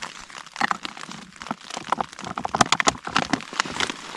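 Rain tapping irregularly on a tent fly, heard from inside the tent, with some rustling of plastic food bags.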